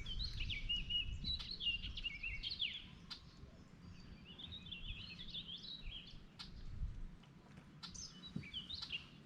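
A songbird singing quick, warbling chirpy phrases in three spells, over a low background rumble with a few sharp clicks.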